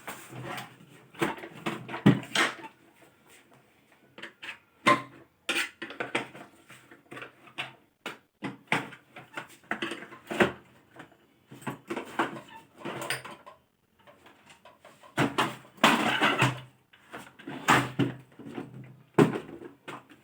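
Irregular clicks, knocks and scraping of the hard plastic parts of a vacuum cleaner being handled and worked on by hand, with short pauses between bursts.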